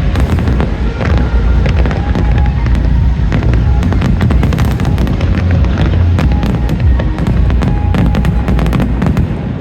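Aerial fireworks bursting in rapid, dense succession, a continuous barrage of bangs and crackles with deep booms underneath, over the music played with the show.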